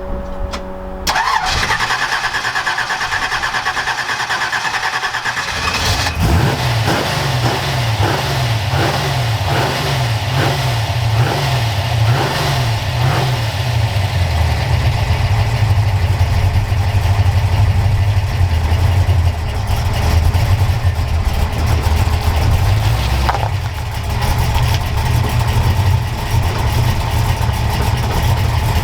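Foxbody Mustang's 347 cubic inch small-block Ford V8 starting: it cranks for a few seconds and catches about six seconds in. It is then blipped, revs rising and falling, before settling into a steady idle.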